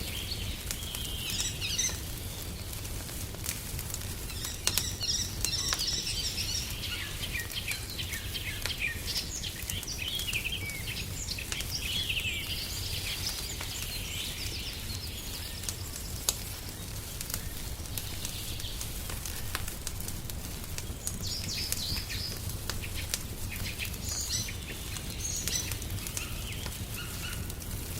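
Wood fire crackling in a fireplace, with scattered sharp pops over a steady low rumble. Songbirds chirp in short bursts throughout.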